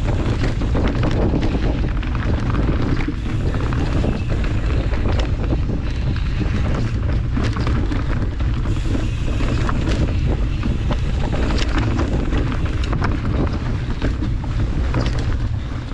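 Steady wind buffeting the microphone of a mountain bike riding fast down a dirt trail, with the bike rattling and knocking over rough ground throughout.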